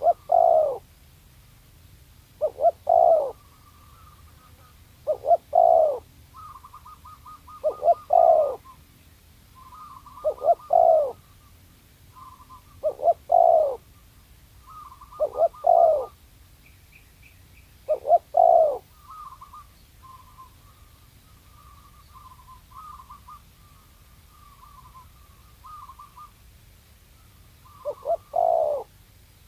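Spotted dove cooing: a short phrase of two or three notes falling in pitch, repeated nine times, mostly every two and a half seconds, with a longer pause before the last one. Fainter, quick, higher twittering runs between the phrases.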